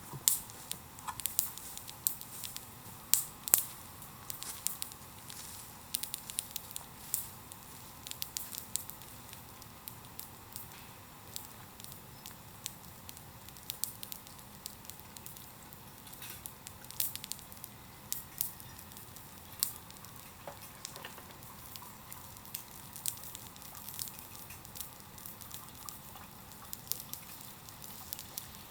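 Bonfire of cut bamboo crackling: irregular sharp pops and snaps over a faint steady sizzle.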